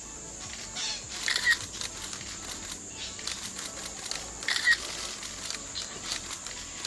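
Camera shutter firing in quick bursts, twice, about a second and a half in and again near five seconds, over a steady high-pitched insect drone.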